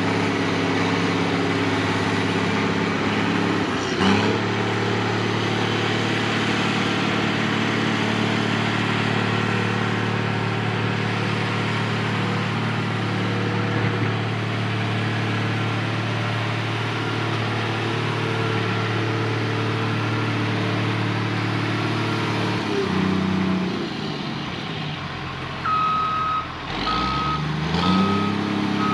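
Heavy diesel earthmoving machine running steadily under load. Past the twenty-second mark its engine note drops, then a reversing alarm begins beeping about once a second as the engine revs back up.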